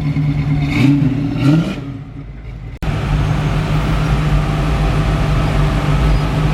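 Car engine idling with a steady low hum, with a short rev rising in pitch about a second and a half in; near three seconds the sound cuts off abruptly and the idling resumes.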